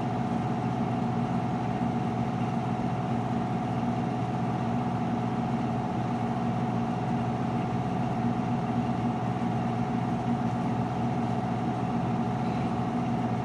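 Whirlpool front-load washer running through its spin and drain cycle with a steady, unchanging mechanical hum: the noise its owner finds troubling.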